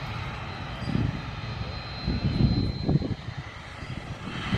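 Airplane engine noise: a steady hum with an uneven low rumble that swells and fades, and a thin high tone held for about a second in the middle.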